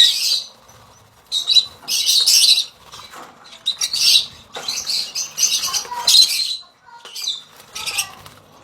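Rosy-faced lovebirds giving shrill, harsh chattering calls in a string of short bursts, with brief pauses between them.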